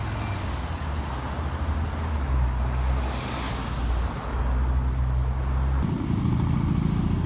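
Car engines running with road traffic; a passing car's tyre noise swells and fades about three seconds in. The sound changes abruptly about six seconds in.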